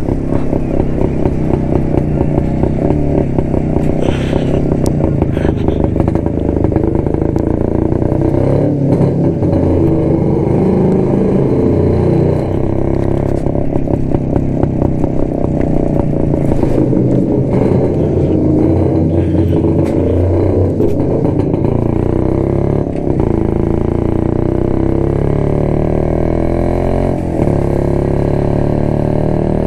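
1972 Jawa motorcycle's two-stroke engine running on the move, its pitch wavering up and down with the throttle.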